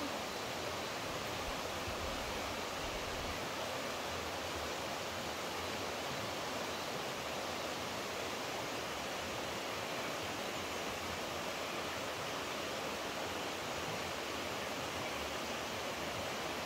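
Running water rushing steadily, an even unbroken hiss with no other events.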